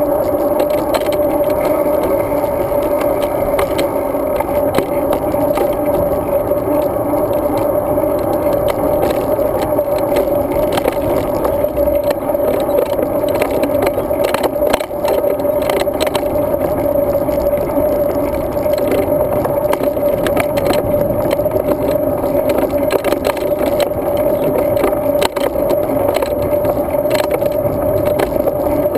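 Steady, loud, muffled rumble of wind and road vibration picked up by a GoPro Hero 2 on a moving road bike, with a constant hum and frequent small rattling clicks.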